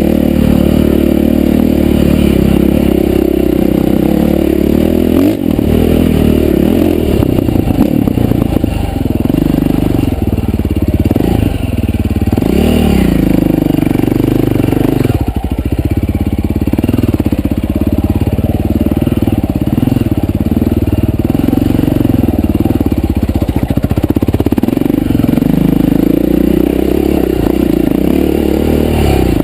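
Dirt bike engine running hard while being ridden, its pitch rising and falling again and again as the throttle is opened and closed.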